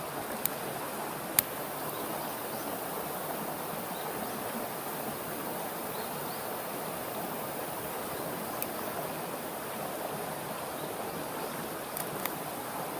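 A small wood fire burning in a compact fire pit under a pot of heating water: a steady rushing hiss with a handful of sharp crackles.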